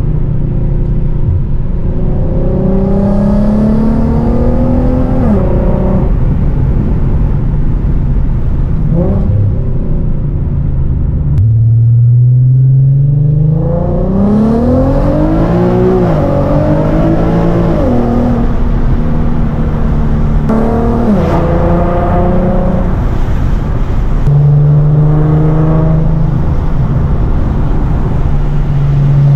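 Infiniti G37's 3.7-litre VQ37VHR V6 running hard under acceleration. The engine's pitch climbs and then drops at each gear change several times, with steady cruising stretches in between.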